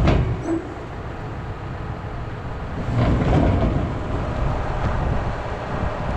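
Heavy vehicle engine running with a steady low rumble, a sharp knock right at the start and louder again from about three seconds in.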